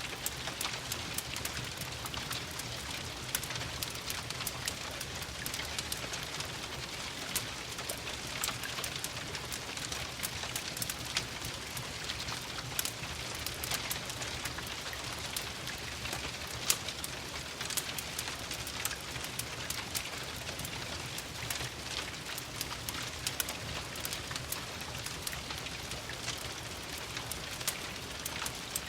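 Steady rain pattering against windows, mixed with a fireplace crackling, its sharp pops scattered throughout.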